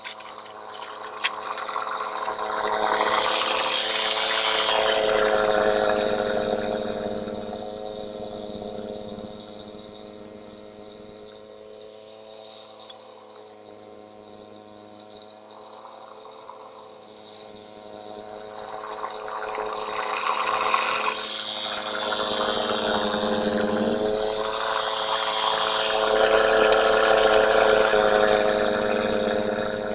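Ariens snowblower engine running steadily, with a rushing noise that swells louder twice: once a few seconds in, then again over the last third.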